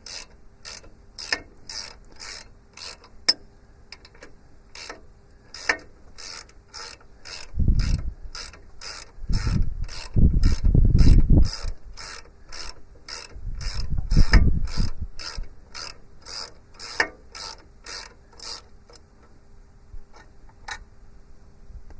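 Ratchet wrench with a 17 mm socket working a bolt loose, its pawl clicking about two and a half times a second on each back-swing, stopping about three seconds before the end. Heavier low rumbling knocks, the loudest sounds, come in three stretches around the middle.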